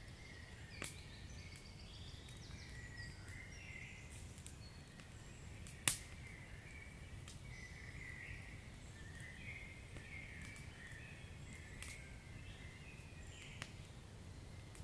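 Wood fire burning, with a few sharp crackling pops over a low rumble; the loudest pop comes about six seconds in. Faint chirping runs throughout.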